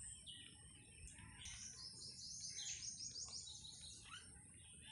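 Faint bird chirps, with a quick trill of repeated high notes in the middle.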